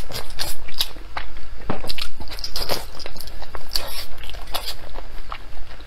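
Close-up chewing of soft, gelatinous braised pork skin rolls: a quick, uneven run of wet clicks and smacks from the mouth.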